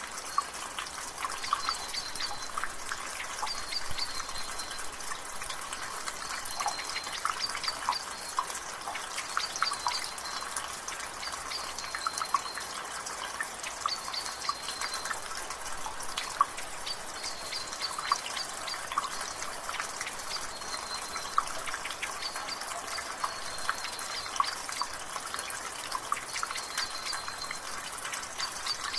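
Rainwater dripping from a gutter: irregular drips and splashes over a steady hiss of drizzle. In the background a bird repeats a short high call about every two seconds.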